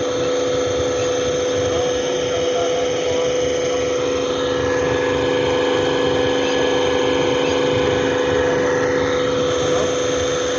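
Hydraulic power pack running steadily, its motor-driven pump giving a constant mechanical hum and whine while it works the unloading.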